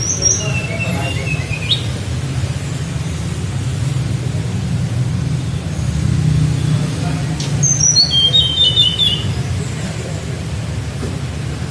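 A caged flycatcher (tledekan) sings two short whistled phrases in flute-like 'nyuling' style, one at the start and one about eight seconds in, each a quick run of high notes stepping down in pitch. A steady low hum runs underneath.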